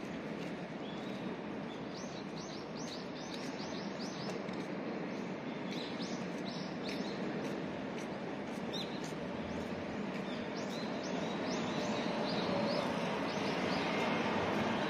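Small birds chirping in quick runs of short, high notes, in two spells, over a steady hum of city background noise that grows a little louder near the end.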